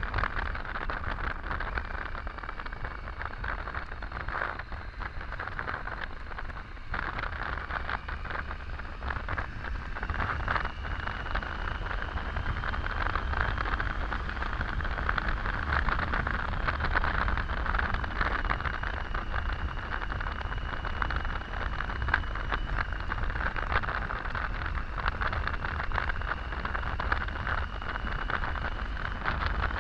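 Triumph Tiger 800 motorcycle riding at road speed: steady wind rush over the microphone with the bike's running sound underneath, a little louder from about ten seconds in.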